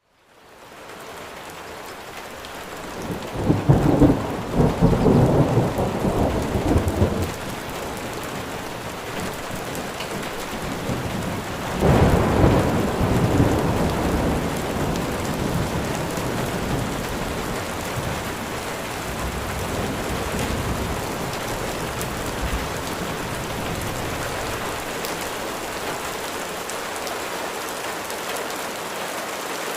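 Steady rain falling, fading in at the start, with thunder rumbling loudly about three seconds in and again around twelve seconds, and a fainter roll a little after twenty seconds.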